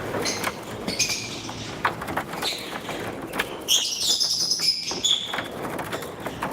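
Pet lovebirds chirping in short, high calls, with a busier run of chirps around four to five seconds in, over scattered small clicks.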